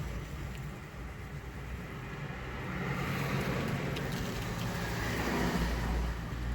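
A truck's engine running under road noise, growing louder about halfway through as it comes closer.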